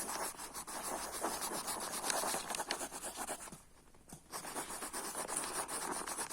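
Colouring strokes scratching rapidly back and forth on paper, with a brief pause a little past halfway.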